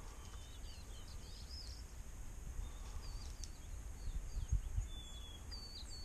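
Faint, scattered chirps of small birds over a low rumble of wind in the open field, with a couple of soft low knocks about four and a half seconds in.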